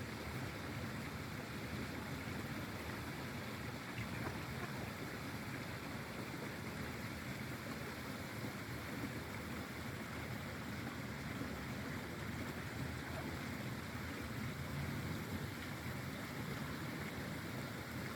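Pond water making a steady, even rushing sound.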